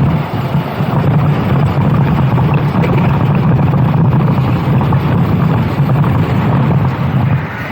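Racing kart engine running hard on track, its note holding fairly steady, with wind noise on the onboard microphone; the engine note briefly drops near the end.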